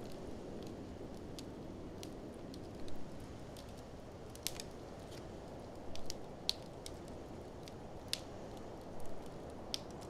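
Wood fire crackling, with small clicks and a few louder sharp pops at irregular intervals over a steady low rushing noise.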